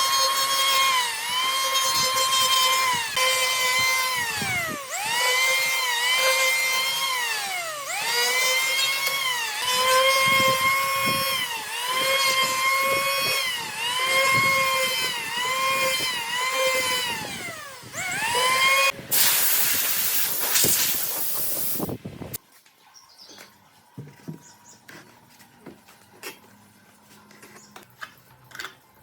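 Electric power tool motor whining at high speed, its pitch sagging and recovering over and over as it bites into the wood. About 19 seconds in, a loud hiss takes over for around three seconds and then cuts off suddenly, leaving only faint scattered clicks.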